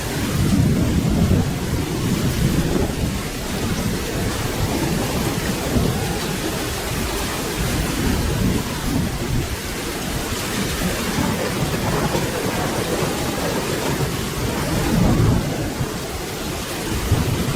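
Steady rain with low thunder rumbling throughout, swelling and fading every few seconds.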